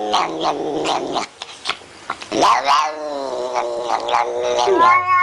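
A cat yowling in long, drawn-out calls whose pitch swoops down and back up, with a short break about a second and a half in.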